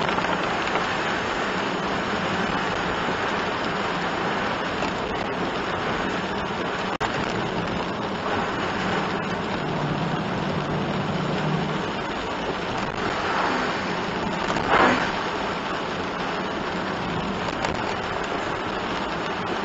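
Steady hiss of rain and tyres on a wet road, heard from inside a moving kei one-box van, with a low engine hum underneath. A brief louder swish comes about 15 seconds in.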